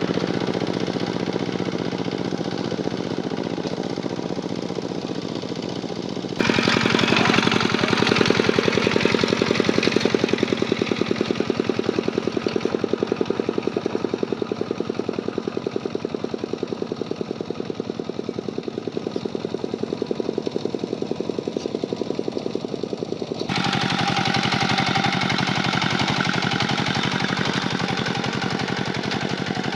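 Kubota tractor's diesel engine running under load with a rapid, even chugging beat. The sound steps up abruptly about six seconds in and changes again about six seconds before the end.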